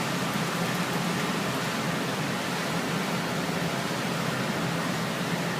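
Furnace running with its burners lit: a steady, even rushing noise.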